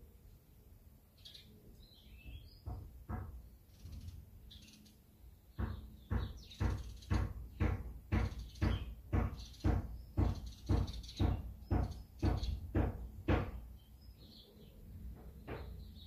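A few faint bird chirps, then about six seconds in a steady run of sharp knocks, about two a second, that stops a couple of seconds before the end.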